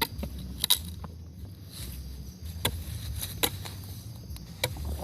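Scattered sharp snaps and clicks, about five of them, the loudest a little under a second in, over a low steady rumble.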